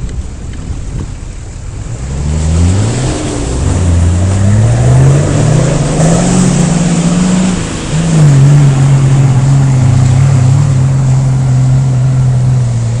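Off-road vehicle's engine pulling hard from about two seconds in, its pitch climbing twice, dropping sharply near eight seconds as it shifts up, then held at steady revs.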